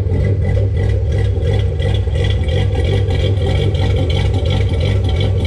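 Corvette V8 with a freshly installed BTR Stage 2 camshaft and valve springs running at a steady idle, with the even, choppy lope of the aggressive cam.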